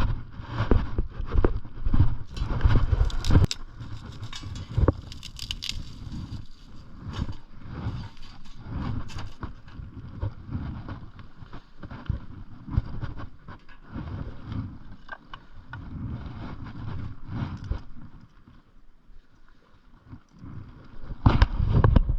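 Irregular knocks, clicks and scrapes from handling or moving over something hard, with a low wind rumble on the microphone; a louder burst of knocking comes near the end.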